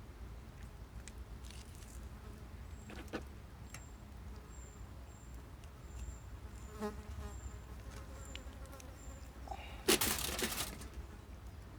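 An insect buzzing in a forest, with a run of faint short high peeps about two a second over a steady low rumble. A short, loud rustling burst comes near the end.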